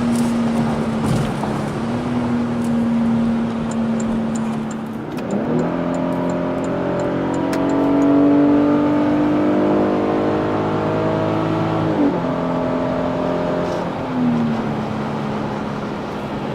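Car engine running steadily, then revved up about five seconds in, held at the higher speed for several seconds and let back down, with a smaller blip near the end before it settles.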